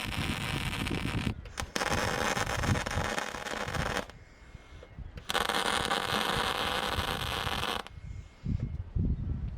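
Electric welding arc crackling in runs of a few seconds. One run goes on until about a second in, another until about four seconds in, and a third from about five seconds in to near the end, each stopping sharply.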